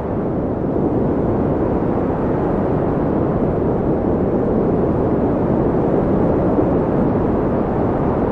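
Steady wind noise, a deep even rush without gusts.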